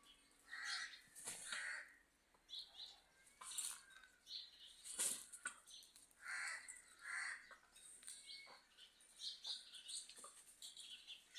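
Birds calling: two pairs of short, harsh calls, one about a second in and another past the middle, with scattered higher chirps between.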